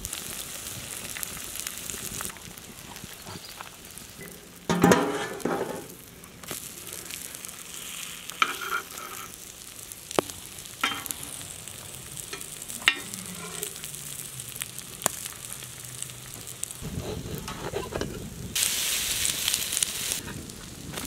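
French toast slices frying in butter and oil on a large flat iron griddle, a steady sizzle with a few sharp pops. The sizzle surges loudly near the end as a slice is turned with a spatula, and there is a brief louder sound about five seconds in.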